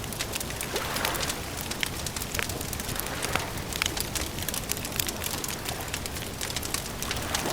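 Campfire crackling: a dense, irregular run of small sharp pops and snaps over a steady low hiss.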